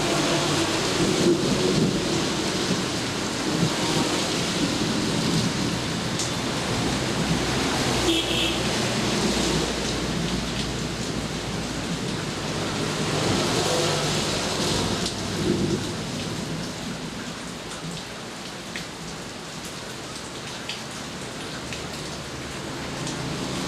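Heavy rain falling steadily in a thunderstorm, with low rumbling thunder. The rain eases a little about two-thirds of the way through.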